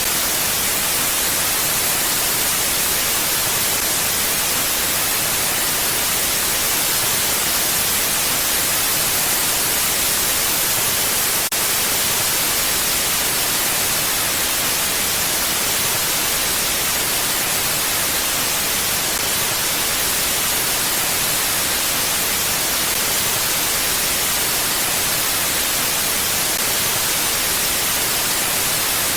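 Steady, even wind noise, a constant hiss with no gusting or change in level.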